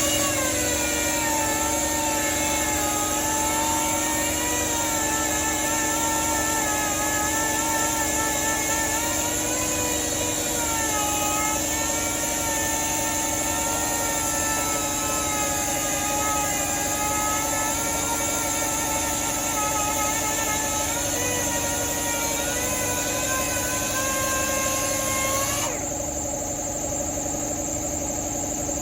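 Power sander running against the car's painted body panel, its whine wavering up and down in pitch as it is worked over the surface; it stops about 26 seconds in, and a steady hum carries on underneath.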